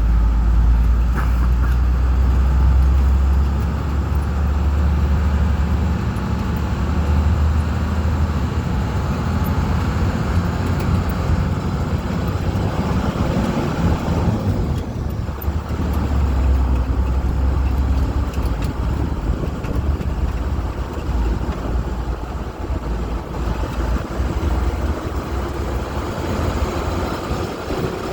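Engine of an amphibious duck tour boat running under way, a steady low rumble that rises and falls slightly, with road or water noise around it.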